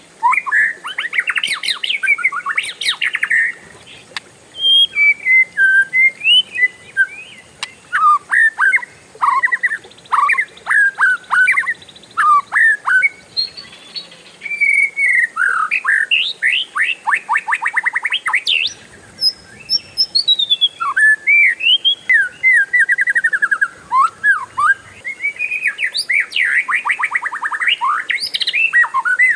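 Oriental magpie-robin (kacer) singing loudly and without pause: a varied song of whistled slurs broken by rapid rolling trills ("ngerol") about a second in, midway and near the end.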